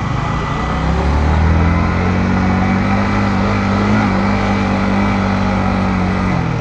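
Yamaha MT-15 V2's single-cylinder engine pulling under throttle on the move, its pitch rising a little, holding steady for several seconds, then dropping away near the end.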